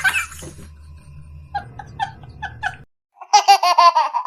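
Men laughing. A laugh trails off at the start, a few soft short laughs follow, and after a brief gap a loud, high-pitched, wavering laugh comes near the end.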